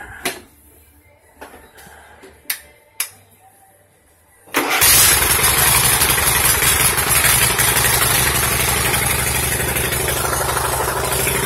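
A few sharp clicks and knocks, then about four and a half seconds in, a rebuilt 21 hp V-twin lawn tractor engine starts abruptly and runs steadily. Its throttle is not yet hooked up, so it holds one fixed speed.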